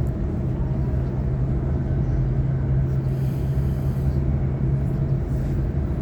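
Waratah electric multiple unit running along the track, heard from inside the carriage: a steady low rumble with a low hum that fades about five seconds in.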